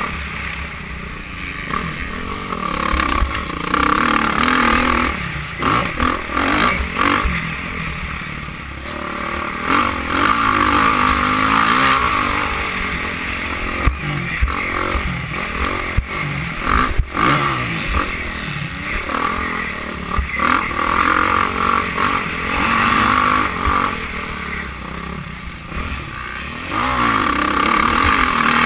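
Motocross dirt bikes racing, their engines revving up and down over and over, with a couple of sharp clicks partway through.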